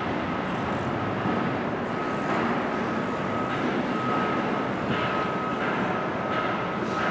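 Steady running noise of a moving train, with a faint steady high-pitched tone over it.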